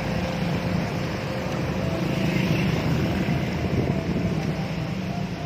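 Steady low rumble of vehicle noise, with no clear starts or stops.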